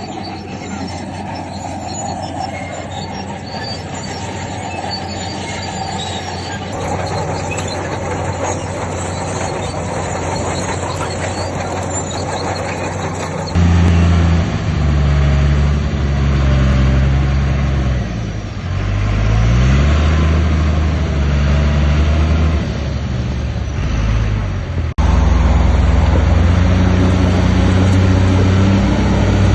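Bulldozer's steel crawler tracks squealing. About halfway in this gives way abruptly to a heavy diesel engine working under load, its pitch rising and falling.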